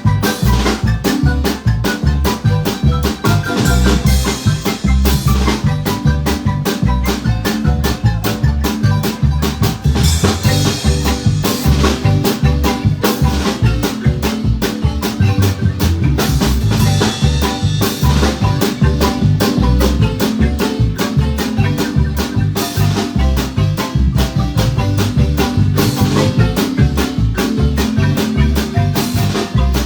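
Marimba band playing live: quick struck marimba notes over a steady, evenly pulsing bass and drum beat.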